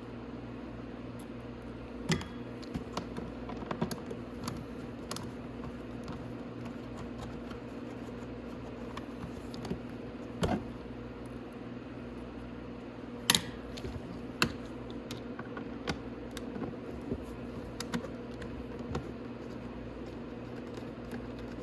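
Scattered, irregular clicks and knocks of hand tools, bolts and panels being handled while an ATV's footwell panels are unbolted, over a steady low hum.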